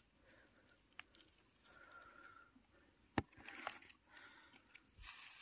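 Faint rustling in leaf litter, with one sharp click about three seconds in and a smaller one near a second in.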